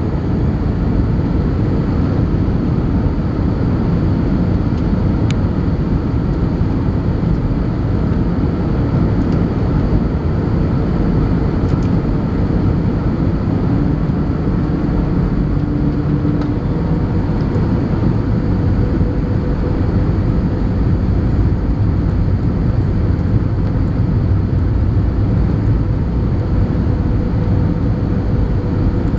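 Steady cabin noise inside an Airbus A320 on its landing approach: an even rush of airflow with a constant engine hum carrying a steady tone.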